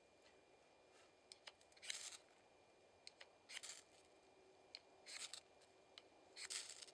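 Four faint, short, hissing scrapes about every one and a half seconds, with small clicks in between: hand work at lighting a fire with birch bark.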